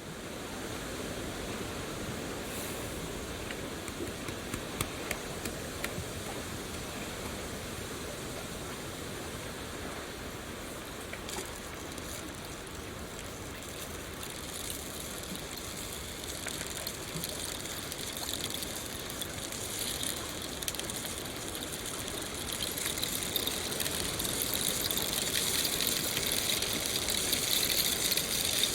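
Steady rush of flowing water, like a stream, with scattered faint clicks; it grows a little louder and brighter in the last few seconds.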